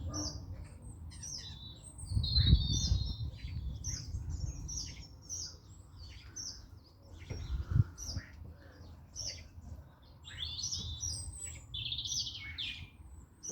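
A flock of birds chirping and calling together in a tree, many short overlapping chirps. Twice, at about two and a half seconds and near eight seconds, a brief low rumble rises under the chirping.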